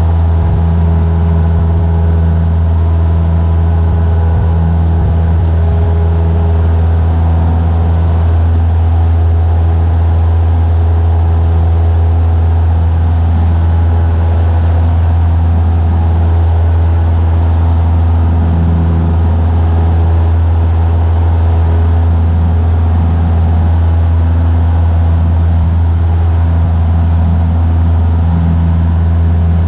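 Cessna 172 light aircraft's piston engine and propeller, a loud steady drone at constant power.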